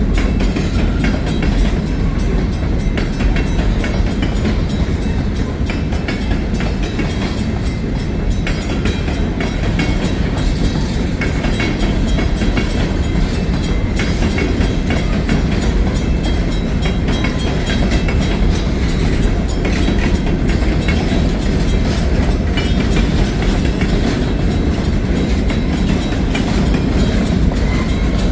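Freight train rolling past: a steady heavy rumble, with the wheels clicking over the rail joints throughout.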